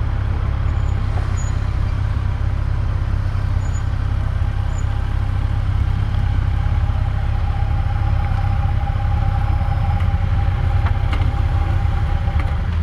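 Hair dryer running steadily on high, blowing into wet motorcycle boots to dry them, with a heavy rush of air and a steady motor whine.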